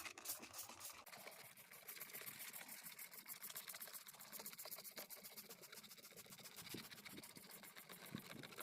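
Faint, fast, steady scratching of truck carpet being scrubbed with a brush.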